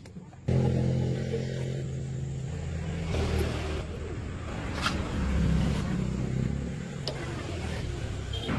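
A car engine comes in suddenly about half a second in and runs with a steady low note; from about three seconds its sound turns rougher and uneven.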